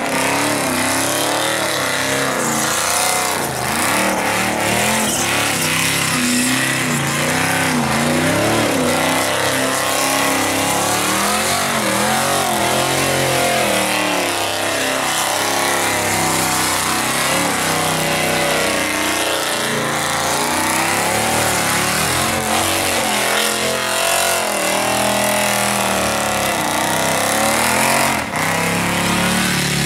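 Holden V8 in a VS Commodore held at high revs through a burnout, its pitch wavering up and down as the rear tyres spin. A steady hiss of spinning tyres runs under it.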